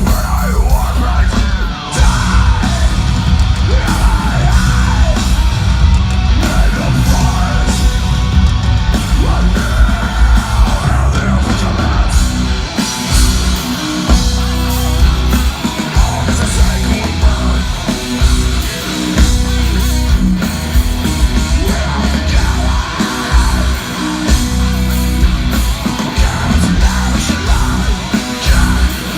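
Heavy metal band playing live and loud: guitars, drums and vocals.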